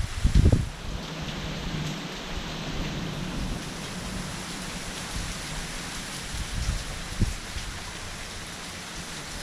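Steady heavy rain falling in a thunderstorm, with short low rumbling bursts at the very start and again about seven seconds in.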